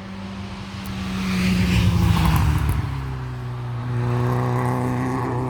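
Hill-climb race car passing at speed: the engine swells to its loudest about two seconds in and falls away, then a steadier engine note carries on.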